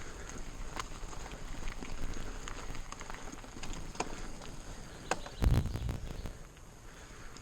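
Mountain bike riding over a trail: tyre noise with scattered clicks and rattles, and one heavy thump about five and a half seconds in. A steady high buzz, an audio fault from the editing software, sits over it.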